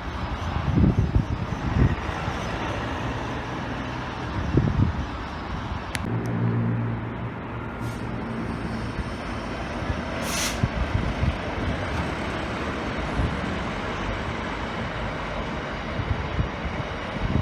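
A train at a station running with a steady rumble and a low hum about six to eight seconds in. A short hiss of air, as from air brakes, comes about ten and a half seconds in.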